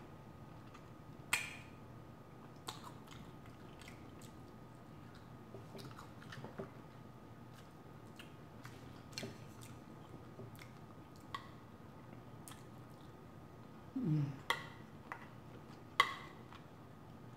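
Close-miked chewing of food, with wet mouth clicks and smacks scattered through. There are a few sharper clicks, the loudest near the end.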